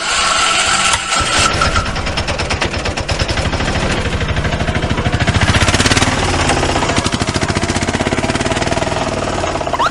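Engine running steadily with a rapid, even chugging pulse.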